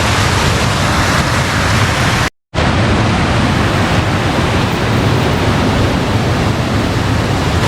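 Fast-flowing stream water rushing in a steady, loud wash. The sound cuts out completely for a split second a little over two seconds in.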